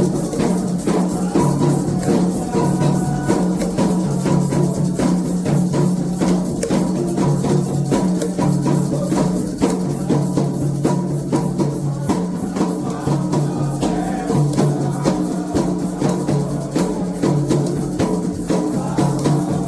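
Candomblé ceremonial percussion music: atabaque hand drums played to a fast, steady beat of sharp strikes, with rattling percussion on top.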